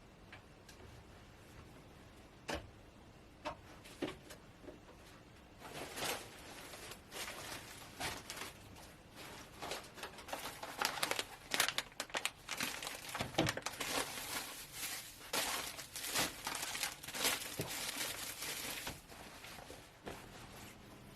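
A few light clicks and knocks, then about six seconds in a long stretch of dense crinkling and rustling, like something being crumpled or torn by hand, which stops shortly before the end.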